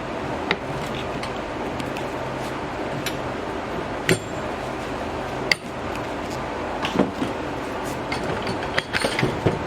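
Metal parts clinking and knocking as the upper strut mount and bearing plate are worked off a compressed coil-spring front strut. There are separate sharp clanks, several close together near the end, over a steady background hum.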